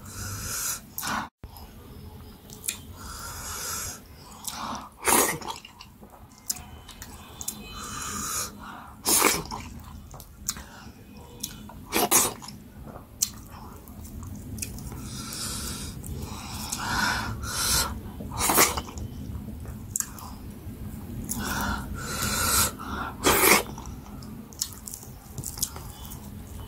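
Close-up mouth sounds of someone eating fufu with goat head pepper soup by hand: chewing, with sharp wet smacks every second or two.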